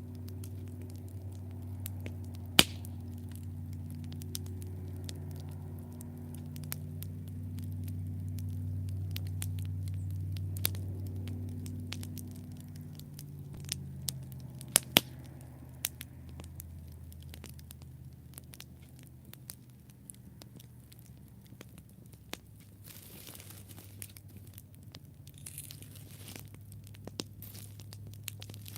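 Campfire of burning wood crackling, with scattered sharp pops and one loud pop a few seconds in. Underneath runs a low rumble that swells around the middle and then eases off, and there is brief hissing near the end.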